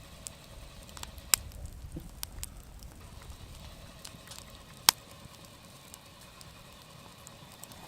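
Wood campfire crackling: scattered sharp pops and snaps, two louder ones about a second and a half in and about five seconds in, over a low steady hiss of the fire.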